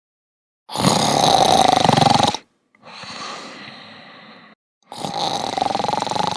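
Loud snoring: two long rasping snores on the in-breath, with a quieter breath out between them.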